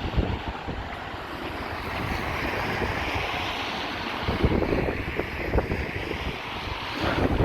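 Wind buffeting a phone's microphone in gusts, rumbling low and swelling louder a few times, over a steady outdoor hiss.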